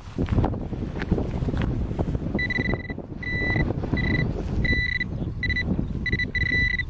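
Metal detecting pinpointer beeping in short, irregularly spaced pulses of one high tone, starting about two and a half seconds in, as it picks up a target in the dig hole. Under it is a low rumble of wind and handling noise, with a few knocks early on.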